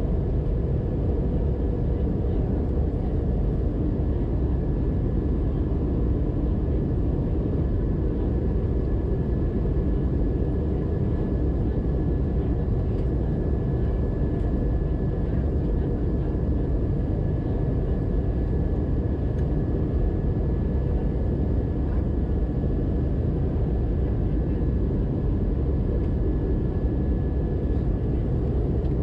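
Steady cabin noise inside an Airbus A320-212 airliner in flight: a low, even roar of engines and airflow, with a faint steady high tone running through it.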